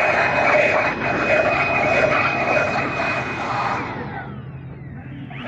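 High-speed power tool running at a steady high-pitched whine with loud hissing. About four seconds in it is switched off and winds down, its pitch falling. It spins up again right at the end.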